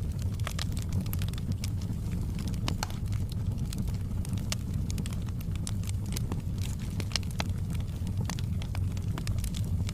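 Wood fire burning in a fireplace, crackling with frequent irregular snaps and pops over a steady low rumble.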